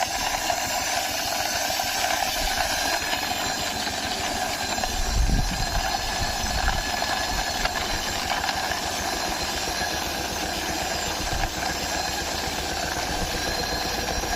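A steady, continuous vehicle engine running sound, with a brief low thump about five seconds in.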